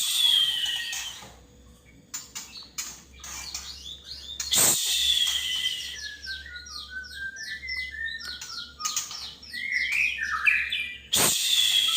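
Male white-rumped shama (murai batu) singing a varied song of clear whistles, quick rising and falling notes and rapid runs of short notes. Loud phrases sweep down from high pitch near the start, about four and a half seconds in, and again about eleven seconds in, over a faint steady hum.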